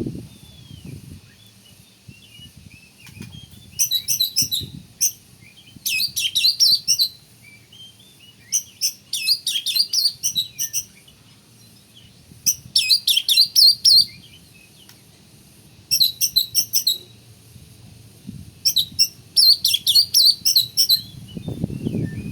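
Oriental magpie-robin singing loudly in the full, energetic 'gacor' style: about seven bursts of rapid, varied high notes, each a second or two long, separated by short pauses. This is the kind of song used as a lure to provoke other magpie-robins. Faint low thumps sound at the very start and just at the end.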